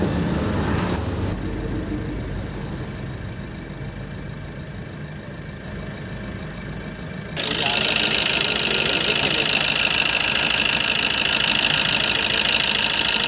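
Maruti Suzuki Ertiga Smart Hybrid engine idling with its injectors freshly serviced; the idle holds steady rather than hunting. About seven seconds in, the sound cuts abruptly to a much louder, steady hissing whir with a strong high band.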